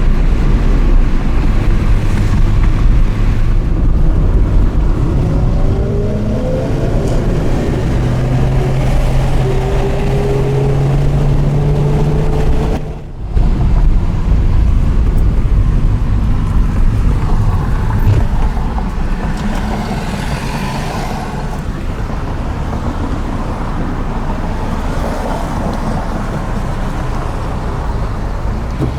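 Porsche Carrera GT's V10 through an FVD exhaust running at low road speed, its note climbing slowly and holding steady, with a brief break about thirteen seconds in and rougher engine and road noise after it.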